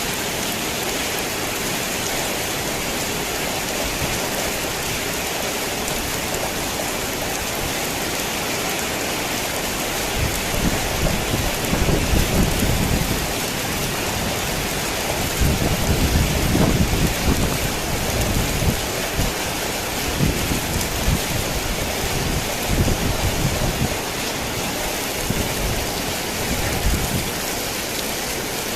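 Heavy rain falling steadily on a tin roof, with rolling thunder rumbling low from about a third of the way in, loudest around the middle and dying away near the end.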